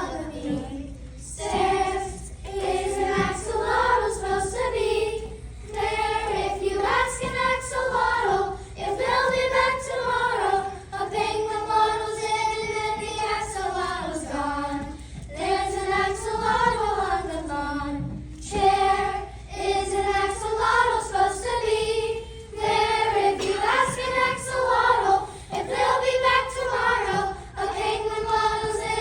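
Children singing together in unison, a song of held, sustained notes with short breaks between phrases.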